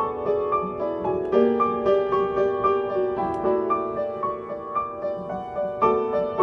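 A solo keyboard instrument with a piano-like sound plays a pop-ballad melody over sustained chords, with new notes struck every fraction of a second.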